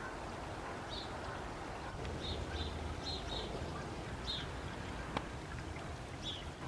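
Short high bird chirps, about seven of them scattered irregularly, over a steady outdoor background hiss and low rumble, with a single sharp click about five seconds in.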